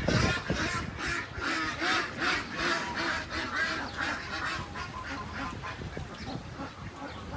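Ducks and geese calling in a rapid run of short quacks and honks, about three a second, fading somewhat toward the end.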